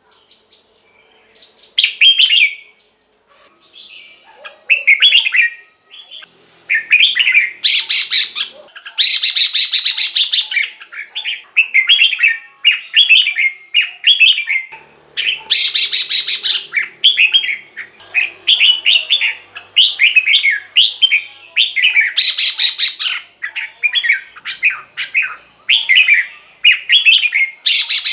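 Red-whiskered bulbul singing short, bubbly phrases, spaced apart at first and then in quick succession from about seven seconds in, with several louder, harsher bursts among them.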